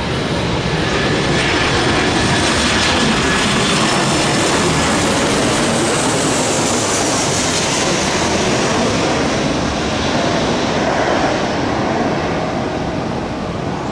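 Jet airliner passing close on its landing approach: loud, steady engine noise, with a high whine that falls in pitch as it goes by around the middle.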